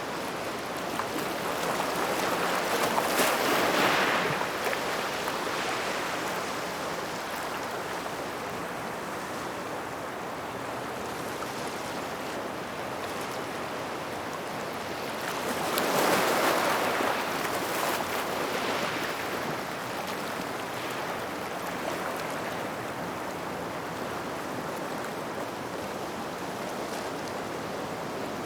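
Small waves washing onto a gravel shore near rocks, two breaking and rushing up at about 3 seconds in and again at about 16 seconds, then draining back with a hiss through the stones between them.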